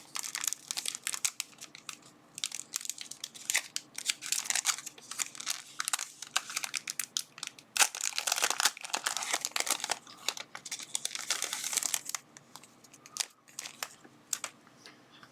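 Thin plastic packaging crinkling and rustling as it is handled and pulled open, in dense irregular crackles that thin out for the last few seconds.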